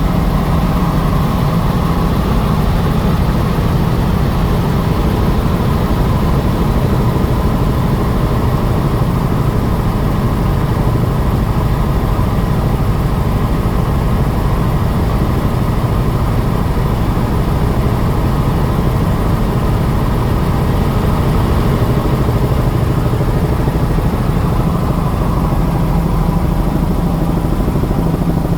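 Helicopter in flight: loud, steady engine and rotor noise that holds an even pitch and level throughout.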